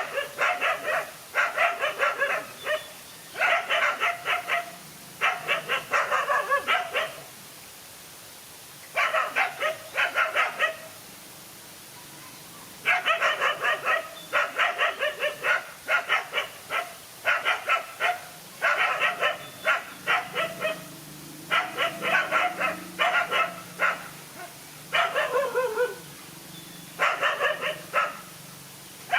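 Dogs barking and yapping in rapid volleys. The bursts last a second to a few seconds, with short pauses between them, and one drawn-out call falls in pitch near the end.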